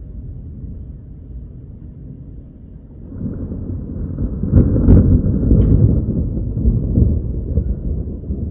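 Thunder: a low rumble that swells about three seconds in to a loud roll, with a few sharp cracks at its peak, then eases off slowly.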